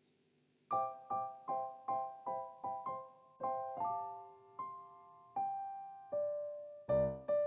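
Background music: a piano or electric piano picking out a run of single repeated notes, about two to three a second, with fuller chords and bass coming in near the end.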